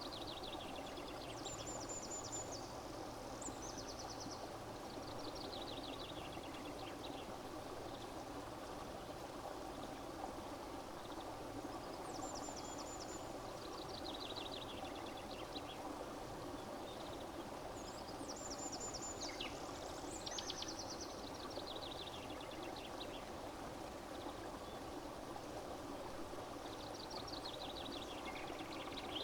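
Steady running water, like a small stream, with a songbird singing four phrases of high, quick trills that step down in pitch, spaced several seconds apart.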